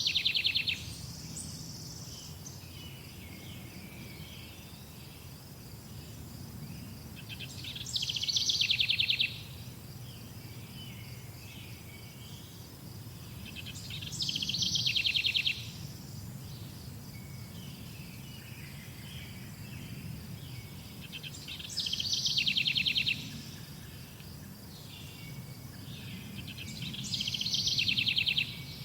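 A songbird repeating a short, rapid trilled phrase five times, each about a second and a half long, with six to eight seconds between them. Under the song run a steady high insect drone and a low background hum.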